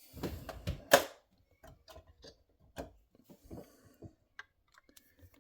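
Small diecast model van being handled and worked back together by hand: a sharp click about a second in, then scattered light clicks and taps of small parts.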